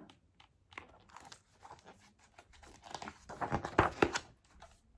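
Paper rustling and crinkling from a picture book's pages being handled and turned, with scattered soft clicks, loudest about three to four seconds in.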